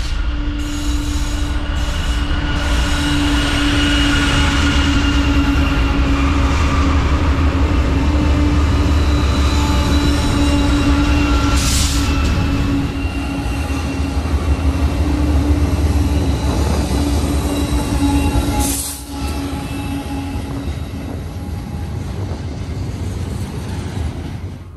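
A double-stack intermodal freight train rolling past close by: a heavy low rumble of steel wheels on rail, with steady squealing tones from the wheels held over it. About three-quarters of the way through the sound dips abruptly, then carries on somewhat softer.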